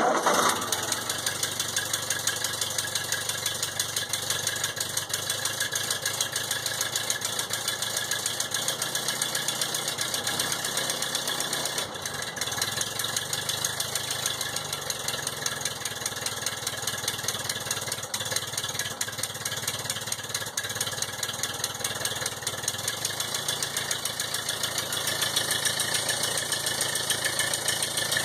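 1952 Ford 8N tractor's four-cylinder petrol engine starting from cold with the choke pulled out, firing up suddenly and then running on steadily with a fast, even exhaust beat.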